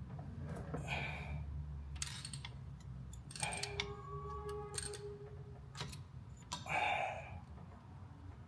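Scattered light clicks and clinks of parts being handled and worked out of a cramped engine bay, with a pitched squeak lasting a little under two seconds near the middle.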